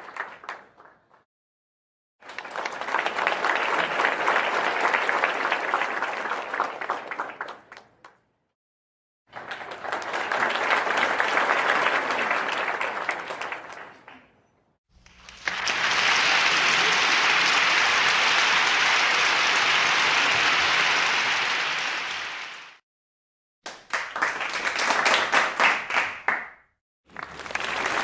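A string of separate crowd applause clips, one after another: a clip ending just after the start, then clips of hand-clapping applause each a few seconds long, broken by short gaps of dead silence. The longest, from about 15 to 23 seconds in, is steadier and duller than the others, and a new one starts near the end.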